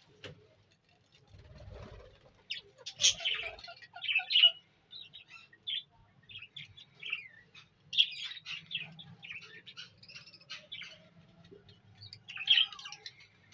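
A budgerigar colony chattering: many quick, overlapping chirps, with louder bursts about three, four and a half, and eight seconds in, and again near the end.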